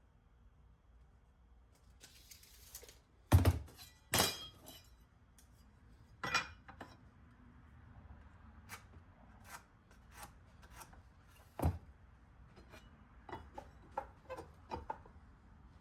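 Pieces of 2x4 lumber being handled on a workbench: a few separate loud wooden thunks, the loudest about three seconds in, then lighter taps and clicks near the end.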